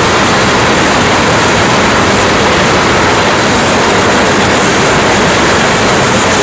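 Freight train of tank cars passing close by: a loud, steady rush and rumble of steel wheels rolling on the rails.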